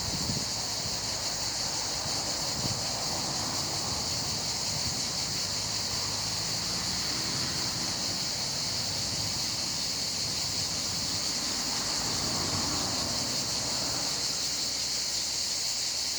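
Steady high-pitched hiss that holds unchanged throughout, over a low wind rumble on the microphone.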